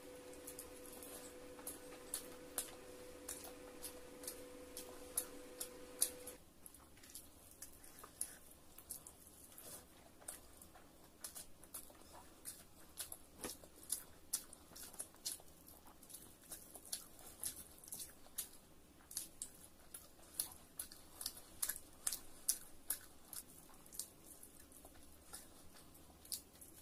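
Close-up eating sounds of a person eating with her hands: wet chewing with many quick mouth clicks and smacks. A steady hum in the background stops about six seconds in.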